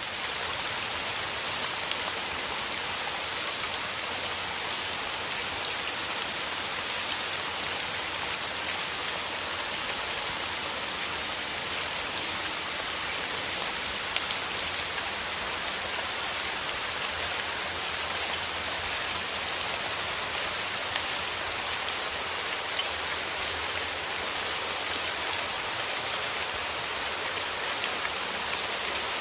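Steady rain falling on surfaces, a dense even hiss with many small drop ticks.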